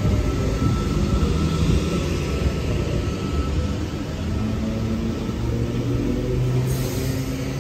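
Train running past, a steady low rumble with a faint high whine that fades out about halfway through, and a brief hiss near the end.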